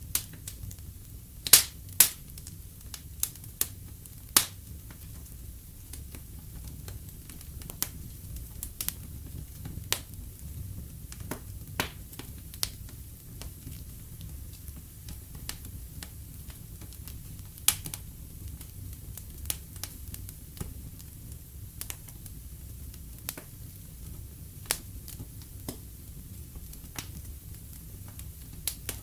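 Wood fire in a fireplace crackling, with irregular sharp pops over a low steady rumble; two of the loudest pops come close together about a second and a half in.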